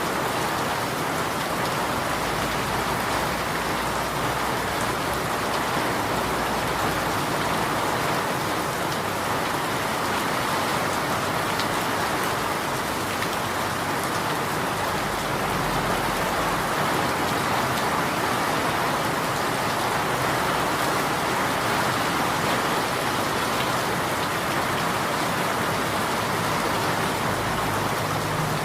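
Steady rain falling, an even hiss of drops with no breaks or single strikes standing out.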